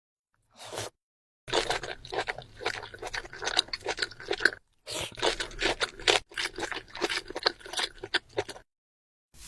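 Close-miked crunchy chewing: a person biting and chewing crisp food in a dense run of crackles and crunches, with a couple of brief pauses.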